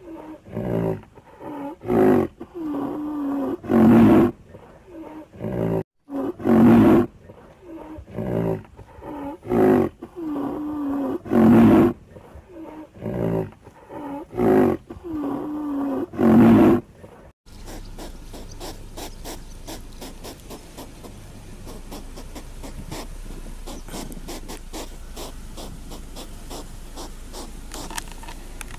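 A large animal calling over and over, each call a loud, deep roar of under a second with a wavering, falling pitch, coming every second or two. About two-thirds of the way through the calls stop suddenly, and a steady low rustle with rapid fine clicks takes over.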